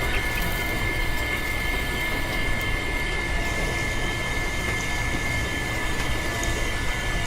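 Small electric motor of a homemade miniature farm machine running steadily with a constant high whine over a rattling hum.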